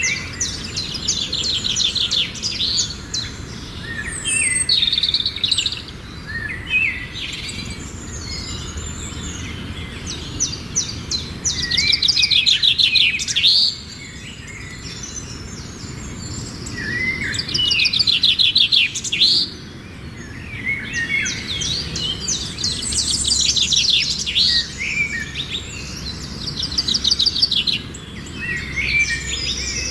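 Songbirds singing: high, rapid trilling phrases a second or two long, repeated every few seconds, with a steady low background noise underneath.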